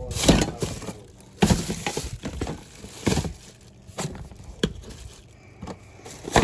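Irregular knocks and clatters of packaged toiletries and household products being handled and set down while they are sorted.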